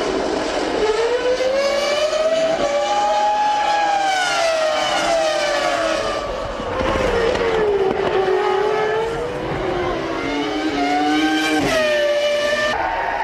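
Formula One car's 3.0-litre V10 engine at racing speed, its pitch rising and falling through gear changes, with a quick stepped drop from downshifts near the end.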